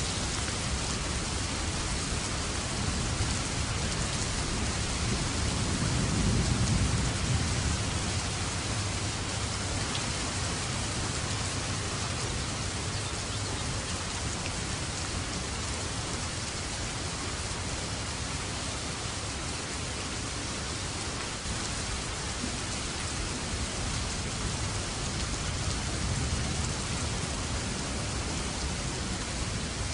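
Steady heavy rain falling on a surface, with a low rumble of thunder swelling and fading a few seconds in and a fainter one near the end.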